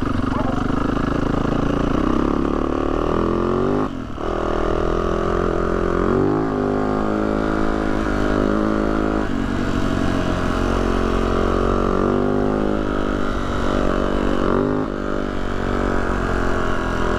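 Yamaha YZ450F dirt bike's single-cylinder four-stroke engine running while riding a trail, its pitch stepping up and down with throttle and gear changes. The engine briefly drops off about four seconds in, then pulls again.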